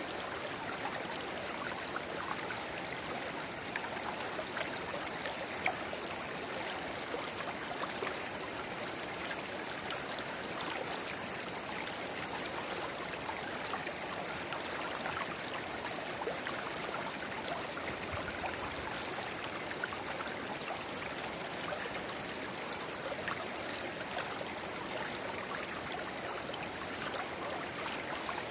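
River water babbling steadily, with many small splashes and droplet sounds throughout.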